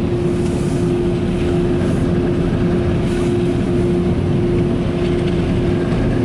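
Car wash air-dryer blowers running, a steady rushing roar with a constant hum.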